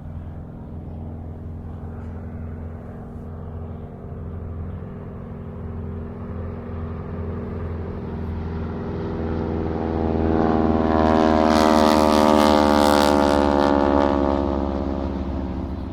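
Airplane flying over: a steady low engine drone builds from about eight seconds in, is loudest with a broad rushing roar for a few seconds, then starts to fade near the end.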